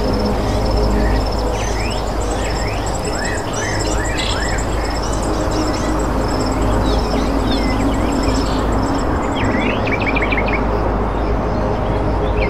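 Small birds chirping and twittering in quick, short calls, in bursts near the start and again about two-thirds of the way through, over a steady low hum.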